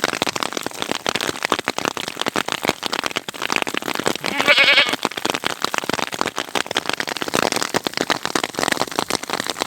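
Rain drops hitting close to the microphone in a dense, steady spatter. A sheep bleats once, about four and a half seconds in.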